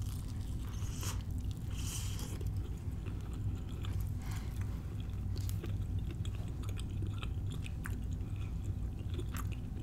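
A person biting into a flaky, deep-fried pork-and-cheese empanada, then chewing with close-up crunches of the crisp pastry crust and wet chewing sounds.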